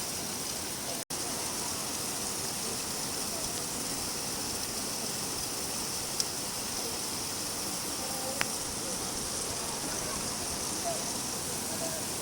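Steady rain falling, an even hiss, with a couple of single sharp drop ticks near the middle. About a second in the sound cuts out for a split second, then resumes.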